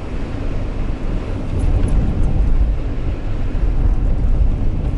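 Steady low rumble of road and engine noise inside a moving car's cabin, growing a little louder about a second and a half in.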